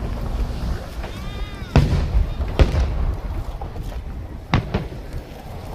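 Aerial fireworks bursting: a continuous low rolling rumble broken by four sharp bangs.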